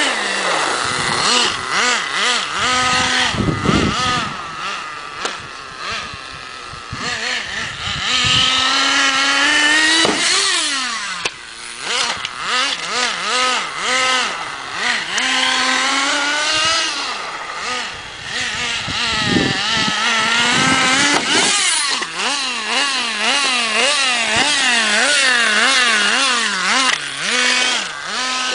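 Two-stroke nitro engine of a 1/10-scale Redcat RC buggy running high, its pitch swinging up and down again and again as the throttle is blipped, with a few sharp knocks along the way.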